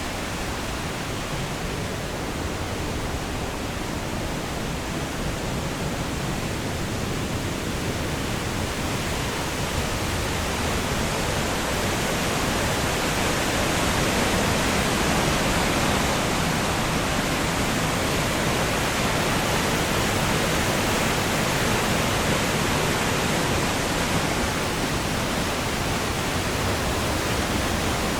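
Steady rush of flowing water, an even hiss and roar with no distinct events, growing slightly louder about twelve seconds in.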